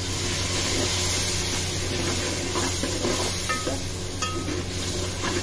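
Spice masala of onion, tomato and ground spices sizzling in oil in a metal pot, with a spoon stirring and scraping it, a few scrapes and clicks about halfway through. A splash of water has just gone into the masala so the spices fry without burning.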